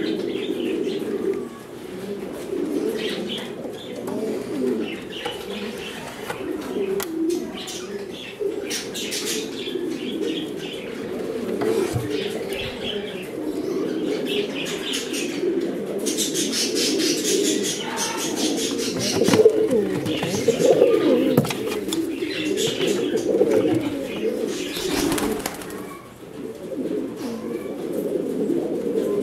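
Many domestic pigeons cooing together in a steady, overlapping chorus, with scattered clicks and a few short bursts of noise, likely wing flaps.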